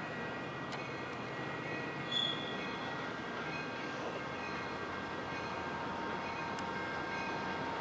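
Approaching freight train led by Union Pacific diesel locomotives: a steady rumble with a thin, steady high whine over it, getting slightly louder near the end.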